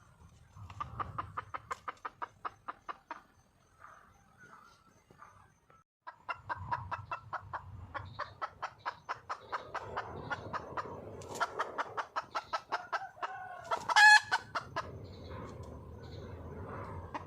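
A wild junglefowl hen calling: two fast runs of rapid clucks, about five a second. The longer run is followed, near the end, by one louder, drawn-out squawk. This clucking is the call a hen uses to call a mate.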